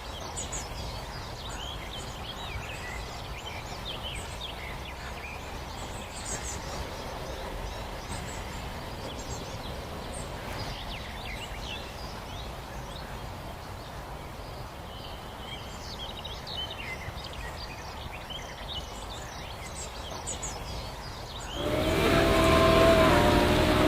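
Small songbirds chirping and twittering in short high calls scattered throughout, over a steady low outdoor rumble. About 22 s in, a louder sound of held tones that waver in pitch comes in.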